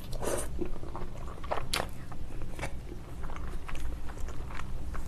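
Close-miked chewing of a mouthful of spicy tteokbokki: wet mouth clicks and smacks, a few of them louder in the first two seconds, over a steady low hum.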